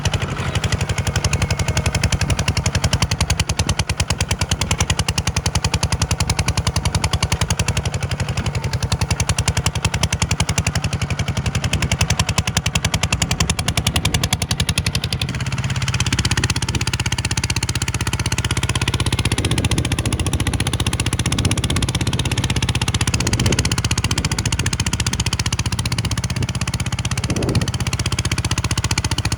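Farm tractor's diesel engine running close by, with a rapid, even clatter of firing pulses. About halfway through, the sound changes to a steadier, lower drone with a few knocks.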